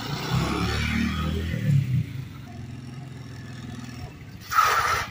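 Small Honda underbone motorcycle engine running as the bike rides up, its pitch rising and falling, then dropping away after about two seconds. A short burst of noise comes near the end.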